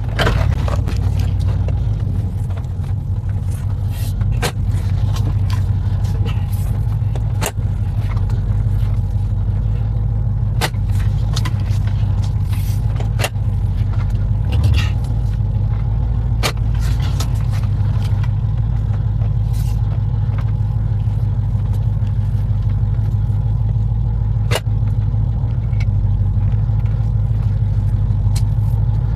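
1996 Chevrolet Impala SS's V8 engine idling steadily, with scattered light clicks over it.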